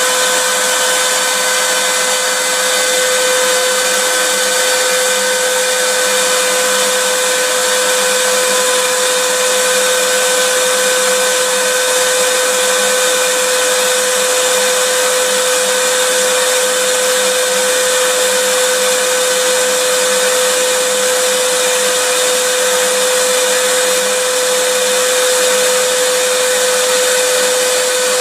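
Vacuum cleaner motor running continuously: a steady whine over an even rushing hiss, with no change in pitch or level.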